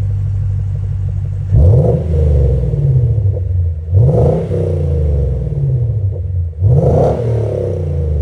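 Lexus IS500's 5.0-litre V8 through an ARK Performance GRiP aftermarket exhaust, idling and then revved three times. Each rev climbs quickly and falls back to idle over about two seconds.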